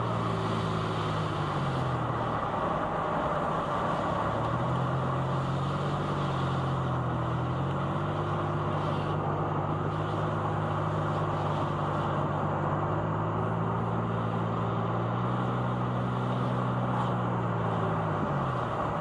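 Car engine and tyre-on-road noise heard from inside the cabin while driving. The engine note drops about two seconds in, climbs again, shifts a few times, and drops once more near the end as the throttle eases and picks up.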